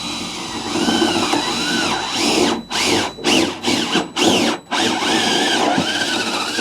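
Power drill boring a hole through a wooden board, slowly. It runs steadily, then stops and starts several times in short pulses around the middle, then runs again, its motor pitch rising and falling.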